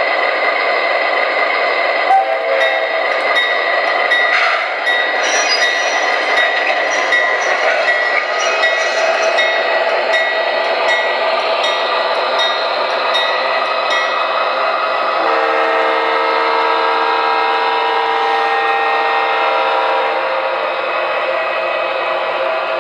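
Onboard sound system of an MTH Premier O-gauge Southern ES44AC model diesel locomotive playing recorded diesel locomotive sounds. Repeated ringing strokes come from about two seconds in to about fourteen seconds. A held horn chord starts about fifteen seconds in and sounds for about five seconds.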